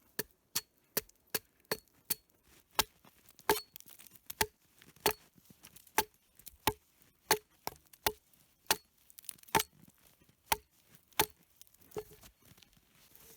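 Axe hewing along a log, a steady run of sharp chopping strikes about two a second, flattening the log's surface and taking off the bark.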